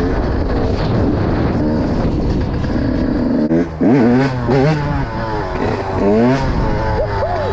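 Yamaha YZ125's 125cc single-cylinder two-stroke engine under way, running steadily at first. From about halfway, the throttle is blipped several times, so the revs rise and fall quickly.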